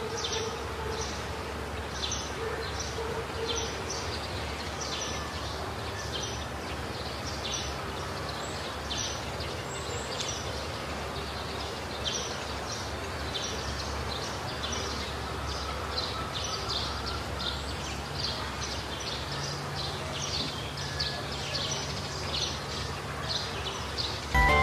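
Steady outdoor background noise with a small bird chirping repeatedly, about once or twice a second.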